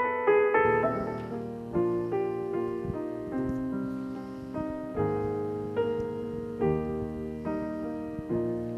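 Piano playing slow chords, with a new chord or note struck about every second and left to ring.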